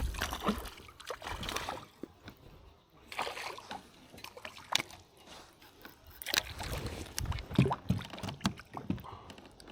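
Water splashing and sloshing around a kayak, with scattered light knocks and clicks on the boat.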